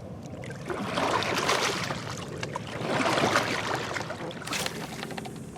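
Water sloshing and splashing in two swells, about a second in and again about three seconds in.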